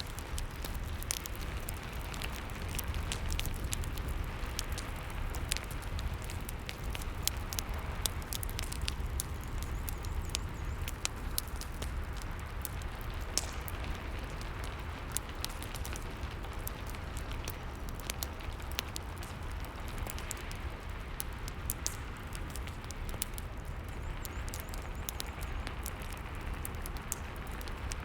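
Rain and wood-fire ambience: a steady hiss of rain with a low rumble underneath, and frequent irregular crackles and pops from the burning fire.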